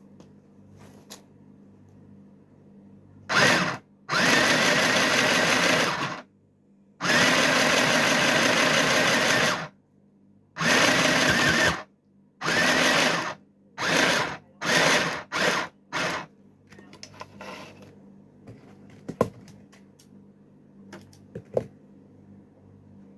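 Mini sewing machine running in a series of stop-start stitching runs. The first runs last a couple of seconds each, then they get shorter and shorter until it stops about 16 seconds in. A few faint clicks follow.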